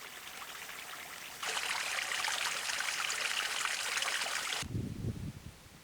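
Small stream running and trickling, growing suddenly louder about a second and a half in. It cuts off abruptly near the end, leaving a quieter, uneven low rumble.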